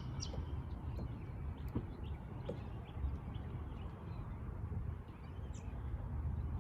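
Scattered faint bird chirps, one a little louder near the end, over a steady low rumble.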